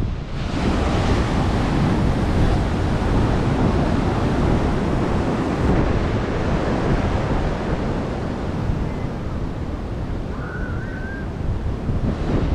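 Ocean surf washing and breaking steadily, with wind buffeting the microphone and a heavy low rumble.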